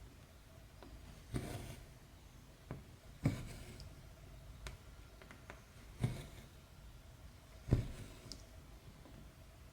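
Needle and thread being worked through cross-stitch fabric: four quiet, scratchy pulls about two seconds apart as the thread is drawn through the cloth, with faint small ticks between.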